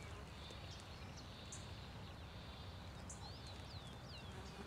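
Faint birdsong from small birds in the marsh: short downward-sweeping chirps, several of them about three seconds in, and scattered sharp high ticks, over a steady low background noise.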